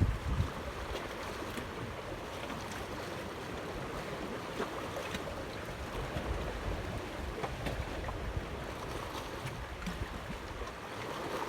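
Outdoor wind and water noise: a steady hiss of moving water and wind, with low gusts buffeting the microphone at the start.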